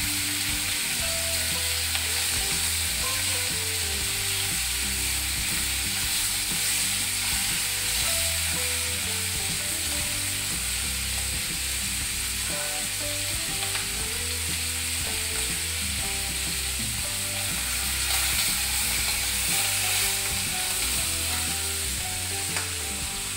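Giant freshwater prawns sizzling steadily as they shallow-fry in hot oil in a nonstick kadai, with a spatula turning them at the start.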